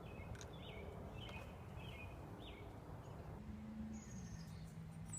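A songbird chirping a run of short falling notes, about two a second, over a faint steady low background rumble.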